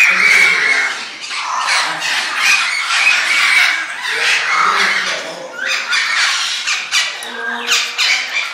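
Many birds squawking at once, their loud calls overlapping without a break.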